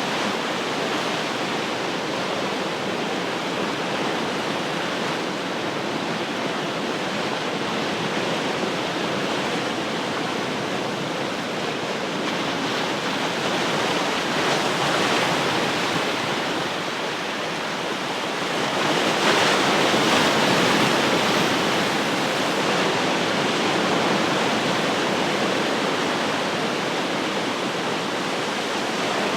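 Ocean surf: a continuous wash of waves on the shore, swelling briefly about halfway through and more strongly about two-thirds of the way in as bigger waves break.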